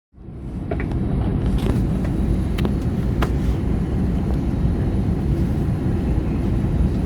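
Steady low rumble of an Airbus A321neo's passenger cabin, with a few light clicks and knocks in the first few seconds.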